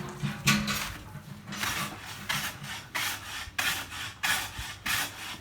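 Carpenter working wood by hand, with regular rasping strokes about three every two seconds.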